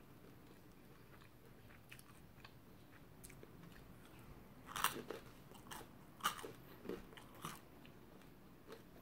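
A person biting and chewing a piece of toast, close to the microphone. There are a handful of short, sharp bites and chews about halfway through, the loudest around five and six seconds in.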